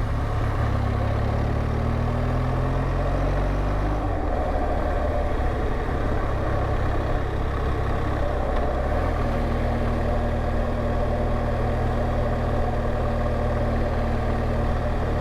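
BMW R1200GSA's flat-twin boxer engine under way. It rises in pitch as it accelerates, drops about four seconds in, then runs at a steady pitch.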